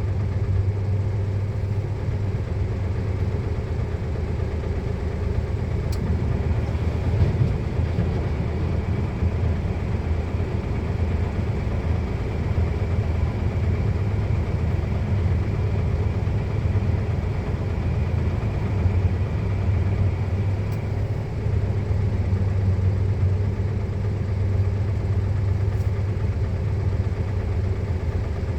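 Heavy truck engine running steadily with a low, even hum that holds at one pitch.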